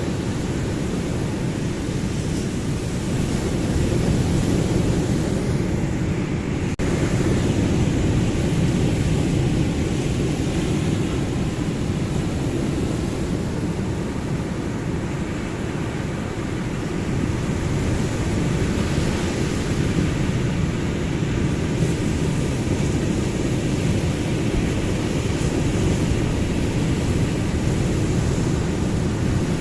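Ocean surf: a continuous deep rumble of breaking waves that swells and eases slowly, louder about four and seven seconds in and again from about seventeen seconds.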